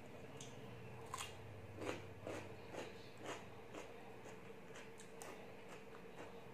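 Close-up chewing of raw cucumber: a run of crisp, wet crunches about two a second, loudest about two seconds in, over a faint steady hum.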